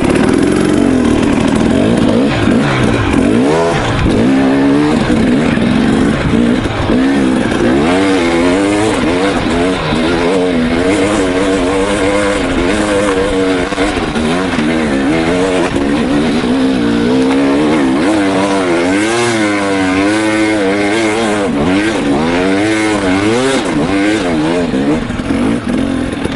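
KTM 300 XC's single-cylinder two-stroke dirt-bike engine under way on a trail, its revs rising and falling constantly as the throttle is worked, at times several swings a second.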